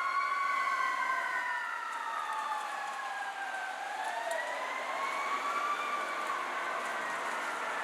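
Two emergency vehicle sirens sounding a slow wail together, each rising and falling in pitch over several seconds, out of step with each other.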